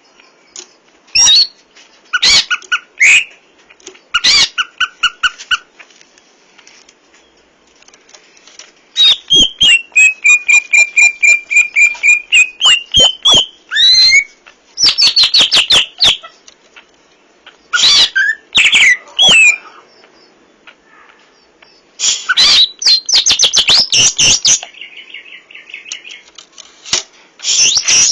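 Cucak ijo (leafbird) singing loud, varied bursts of chirps, whistles and fast trills with short pauses between phrases, its song full of mimicked phrases. A long run of rapid notes comes about a third of the way in.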